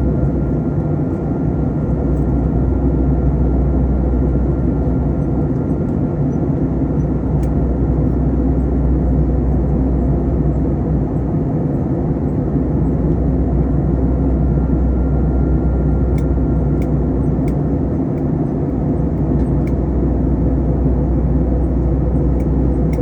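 Steady cabin noise of an Airbus A321 in descent: jet engines and airflow making a loud, even, low-pitched rush, with a faint steady high tone running through it.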